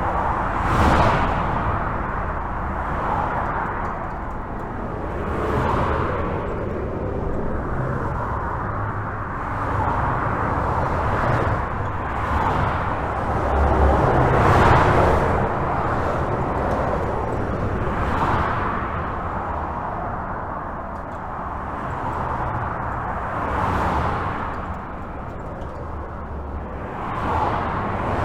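Steady highway traffic heard from under a bridge: a continuous rumble and tyre noise, swelling every few seconds as single vehicles pass overhead, the loudest pass about halfway through.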